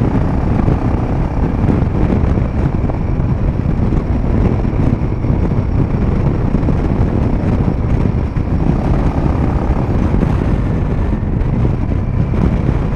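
Royal Enfield Himalayan 450's single-cylinder engine running steadily through an aftermarket Power Rage exhaust with its dB killer fitted, cruising at highway speed, mixed with wind noise on the microphone.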